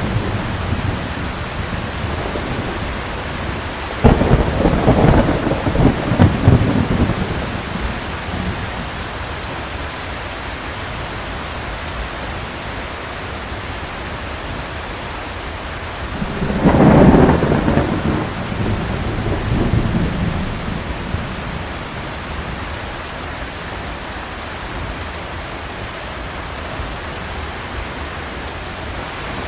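Steady heavy rain with thunder: a sudden clap about four seconds in rumbling for a few seconds, and a second rumble rising and fading a little past the middle.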